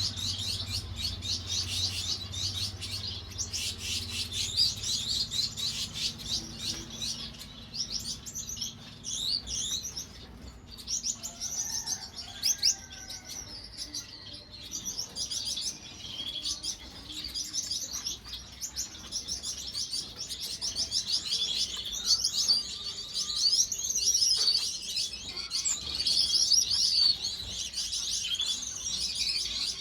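Gouldian finches chirping and twittering, a nearly continuous run of rapid high calls, with a faint low hum under the first few seconds.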